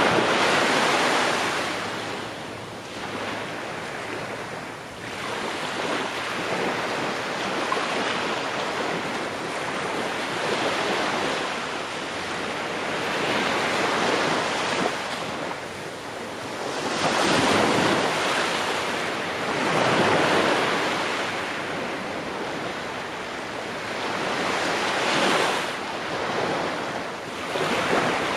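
Ocean waves breaking and washing on a shore, swelling and receding every few seconds, with the biggest surges near the start, around two-thirds of the way through and near the end.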